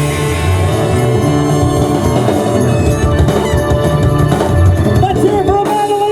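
Live rock band playing, with drum kit, bass and electric guitar; the low end drops out about five and a half seconds in as the song ends.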